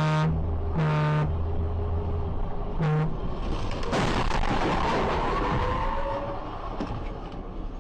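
A car horn honks three short times over the steady drone of road and engine noise heard from inside a car. About four seconds in, a loud harsh noise with wavering, sliding tones breaks out and slowly fades.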